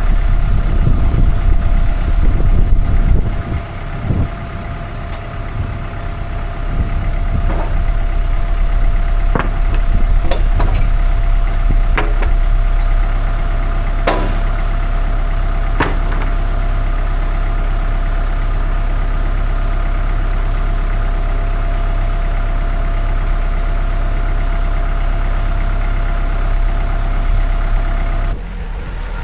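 Engine running steadily at idle, with a louder rumble in the first few seconds and a handful of sharp knocks around the middle; the engine sound drops off just before the end.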